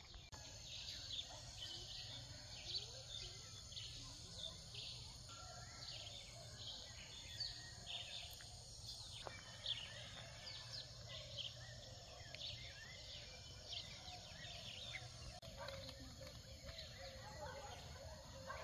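Faint chorus of wild birds, many short high chirps and calls overlapping, over a low steady hum.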